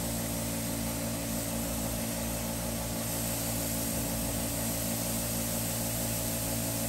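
Delta circular saw blade sharpener's motor running steadily, its abrasive wheel spinning free with nothing against it: an even hum under a steady whir.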